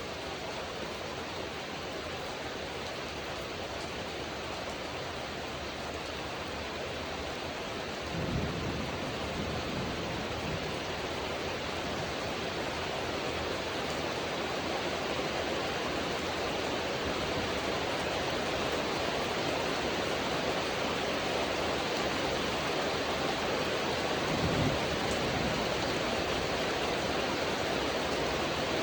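Rain falling steadily as an even hiss that grows slightly louder, with two brief low rumbles, one about eight seconds in and another about twenty-four seconds in.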